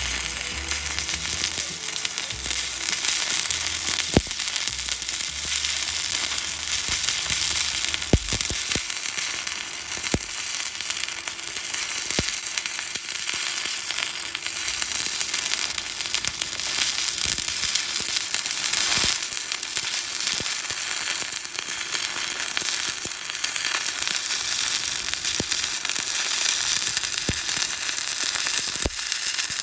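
Stick-welding arc burning steadily with a continuous crackle and sizzle, broken by occasional sharp pops.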